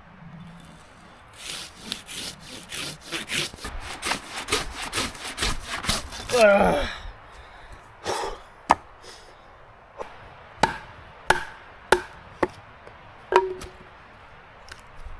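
Hand saw cutting wood in quick even strokes, about four a second, ending in a short falling creak. This is followed by a series of separate sharp knocks about half a second to a second apart.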